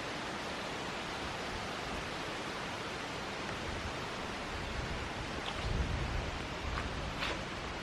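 Steady rushing of a small creek's flowing water, with a few low bumps about six seconds in and a couple of faint short high ticks near the end.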